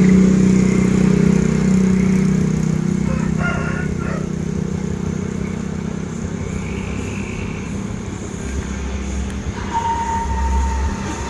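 Truck engine running as it passes, a steady low drone that is loudest at the start and fades gradually; a brief steady higher tone sounds near the end.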